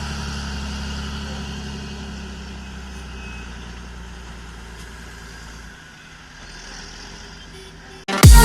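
John Deere 8420 tractor's six-cylinder diesel engine idling steadily, growing gradually fainter; its low hum stops about six seconds in. Loud electronic dance music cuts in abruptly near the end.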